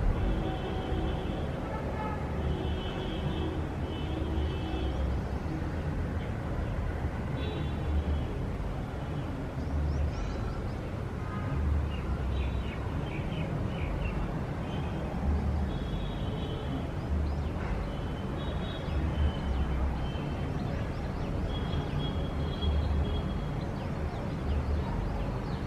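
City street ambience: a steady rumble of road traffic, with short high-pitched sounds coming and going over it.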